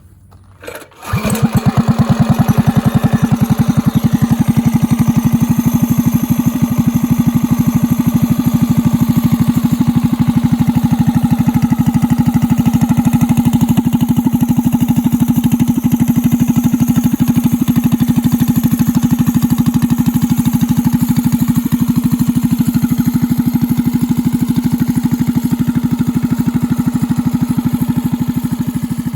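Baja Warrior minibike's single-cylinder, roughly 200cc engine, fitted with a stage 1 kit and a carburetor not meant for a 200, running loud and steady with no revving, coming in suddenly about a second in.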